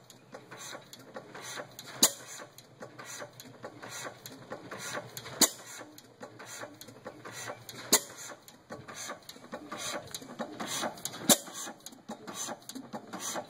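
5 hp Miami side-shaft hit-and-miss engine running, firing four times with a sharp bang roughly every three seconds. Between firings it coasts with a light mechanical clatter.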